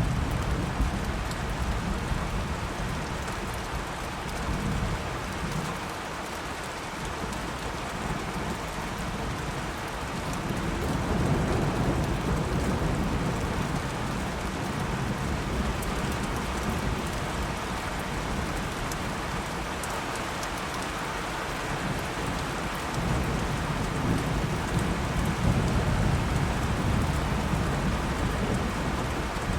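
Steady rain with low rolling thunder. The rumble swells near the start, again about a third of the way in, and through the last few seconds, easing off in between.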